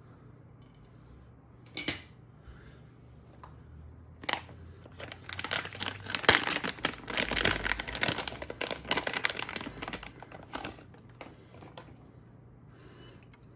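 Two sharp clicks, then about five seconds of plastic packaging crinkling and rattling as it is handled.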